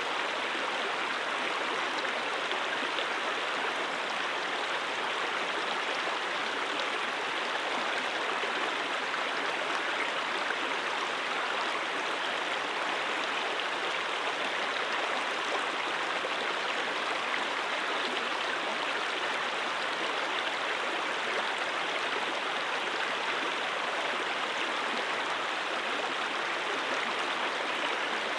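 Brook flowing steadily: an even, unbroken rush of running water with no changes.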